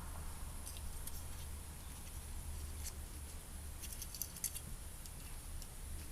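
Faint scattered clicks and light taps of small parts being handled, a few in the second half, over a steady low hum.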